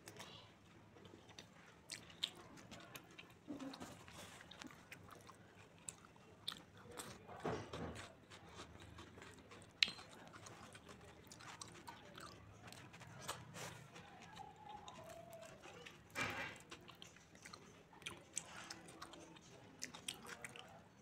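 Quiet close-up sounds of a person eating spinach-and-paneer curry with rice by hand: chewing and wet mouth smacks, mixed with fingers squishing and scooping the rice on the plate. Irregular small clicks, with a few louder smacks scattered through.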